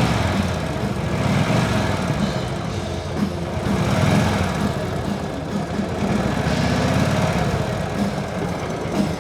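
WWII Harley-Davidson 45 cubic inch flathead V-twin engine running at idle with an uneven pulsing beat. It swells in level a couple of times.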